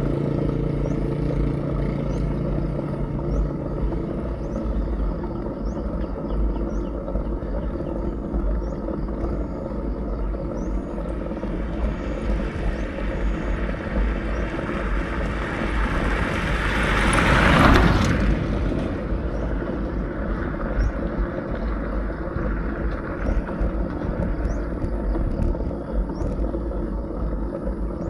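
Steady wind buffeting and road rumble on a bicycle-mounted action camera's microphone while riding. A louder rushing sound builds over several seconds and ends abruptly about two-thirds of the way through.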